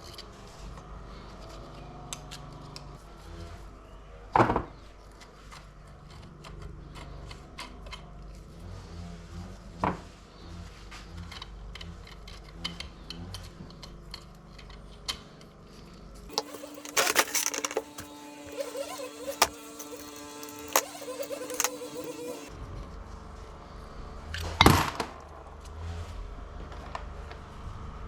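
Scattered metallic clicks and knocks of tools and parts being handled, over a low hum. For about six seconds past the middle the hum gives way to a steady tone.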